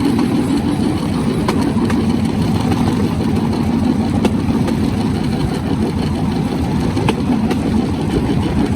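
Bamboo train's small engine running steadily, with a few sharp clacks now and then.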